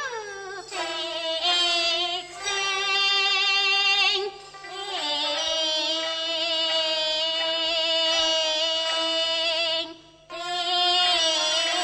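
Teochew opera singing: a high, woman's voice holding long, wavering notes, the longest lasting about five seconds, with a short break for breath near the end.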